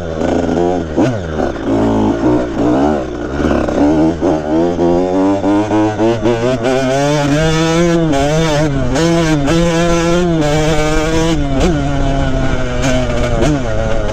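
KTM 85 dirt bike's small two-stroke single-cylinder engine revving hard, climbing in pitch and dropping back again and again as the rider accelerates and shifts through the gears.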